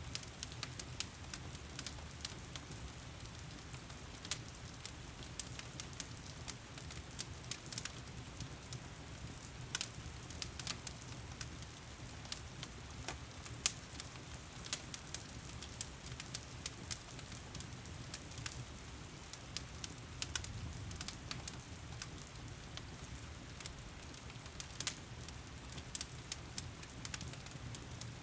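Wood fire crackling in a fireplace, with frequent sharp pops and snaps at irregular intervals. Steady heavy rain hisses underneath.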